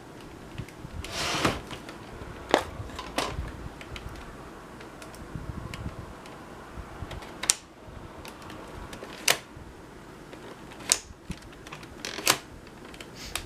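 Sharp clicks of switches and buttons on a Panasonic AG-450 S-VHS camcorder being worked by hand, about seven separate clicks a second or two apart, with a short rustle of handling about a second in.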